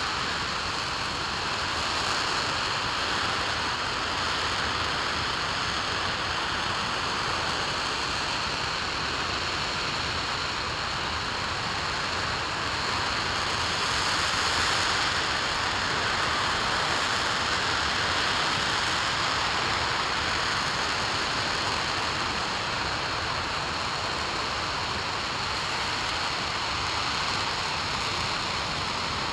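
RS-25 liquid-hydrogen/liquid-oxygen rocket engine firing steadily in a static test: a continuous, even, hiss-like roar that holds the same level throughout.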